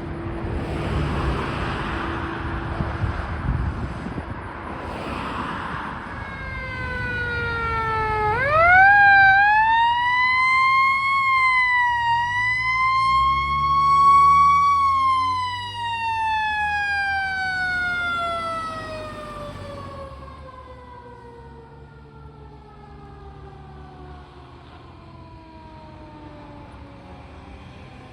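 Fire engine's siren spinning up sharply, holding a high wail for several seconds, then slowly winding down in pitch over about twelve seconds, the long coast-down of a mechanical siren. The truck's engine and road noise run underneath, alone for the first few seconds.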